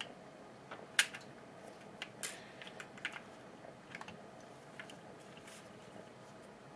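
Scattered light clicks and taps of hedge trimmer parts being handled and pushed together by hand, the loudest about a second in.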